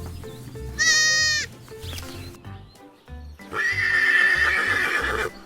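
Pony neighing twice, a short call about a second in and a longer, rougher one from about three and a half seconds, over background music with a steady beat.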